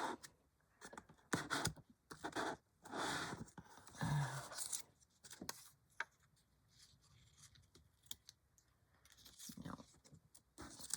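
Scattered computer mouse and keyboard clicks, with several short breathy noise bursts and a brief murmured "hm" about four seconds in.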